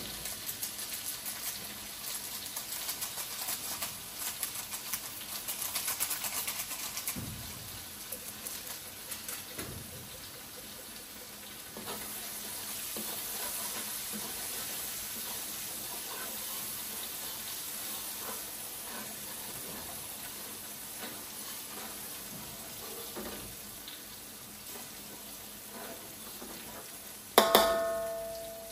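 Chopped garlic, shallots and chilli frying in hot oil in a pan, sizzling and crackling. The sizzle is busiest for the first several seconds and then settles to a steadier hiss. Near the end comes one sharp metallic clang that rings and fades over about a second.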